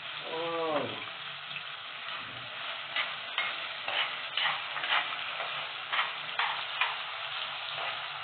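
Onion, tomato and thyme seasonings sizzling in hot oil in a pot, with a metal spoon scraping and clicking against the pot as they are stirred from about three seconds in.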